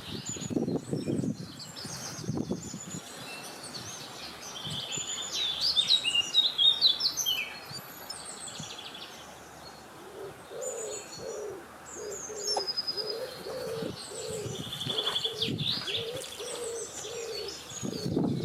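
Several songbirds chirping and singing in overlapping short, high phrases and trills, with a lower bird call repeating for several seconds from about the middle, over a steady low rushing background.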